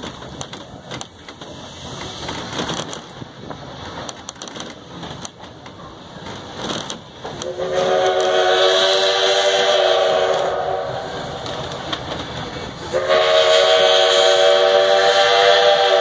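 Steam locomotive's chime whistle blowing two long blasts of several notes at once, the second starting about five seconds after the first ends and running on past the end, over the low rattle of the train running on the track.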